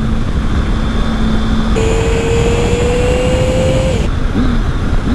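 Triumph Speed Triple's three-cylinder engine under way, with heavy wind rumble on the helmet microphone. A little under two seconds in, the engine note jumps higher and climbs steadily as the bike is revved out, then drops away about four seconds in. It is being revved because the gears stick and are reluctant to engage in the first minutes of riding.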